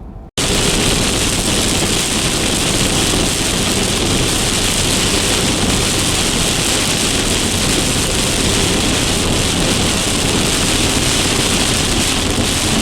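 Heavy thunderstorm rain pounding on a vehicle, a dense, steady, loud hiss that starts abruptly about a third of a second in.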